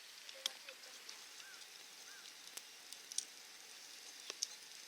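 Wood campfire crackling: a faint steady hiss with a few sharp, scattered pops.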